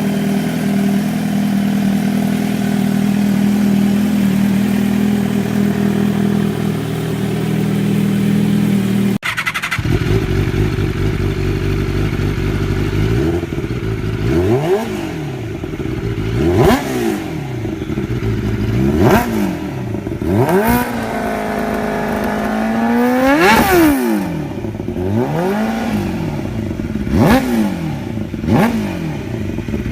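Motorcycle engine running at a steady pitch, then after an abrupt cut about a third of the way in, revved over and over in short throttle blips that rise and fall about every two seconds. One longer rev climbs higher past the halfway point.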